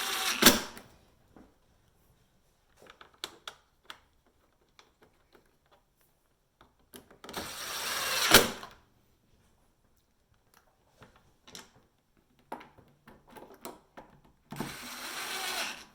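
Screws being driven back into a dishwasher's plastic door panel: three short runs of about a second, each rising and ending in a sharp click, with light handling ticks in between.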